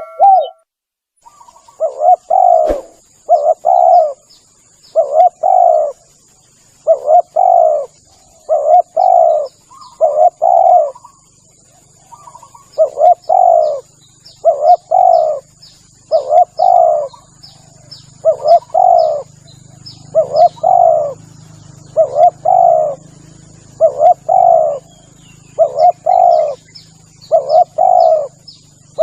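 Spotted dove (tekukur) cooing over and over: short, loud two-part coos about once a second, with a brief pause near the middle, as used for luring tekukur. Faint high chirps and a thin steady high whine run underneath.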